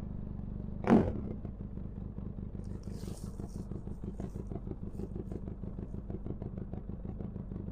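Benelli TRK 502 X parallel-twin engine running steadily through an aftermarket Arrow exhaust with the dB killer removed, giving a deeper note. A single short loud thump comes about a second in.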